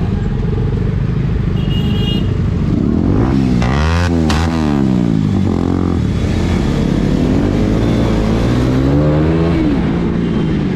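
Motorcycle engine running, revved up and back down about three to five seconds in, then climbing and dropping again more slowly around eight to nine seconds.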